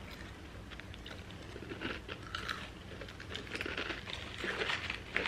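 A person chewing crunchy food, likely well-done fries, with short irregular crunches and bites throughout.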